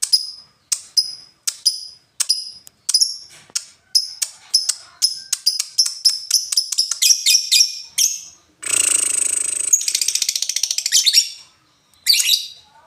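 Lovebird giving sharp, ticking chip calls ('ngetik') that speed up over about eight seconds, then breaking into a rapid, continuous chattering song ('ngekek') for about three seconds, with one more short burst near the end.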